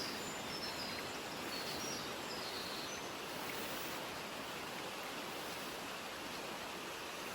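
Mountain outdoor ambience: a steady, even hiss of natural background noise, with faint short, high bird chirps in the first three seconds.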